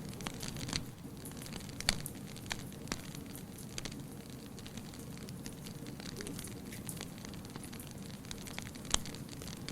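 Wood fire crackling, with frequent scattered pops over a low steady rumble of the flames; two sharper pops stand out, about two seconds in and near the end.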